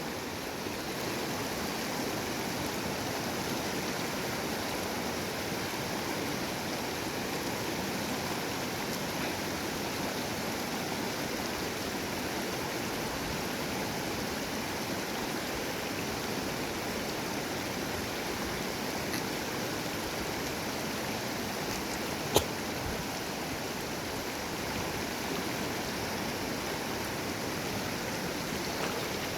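Small river's water flowing: a steady, even rushing. One sharp click comes about three quarters of the way through.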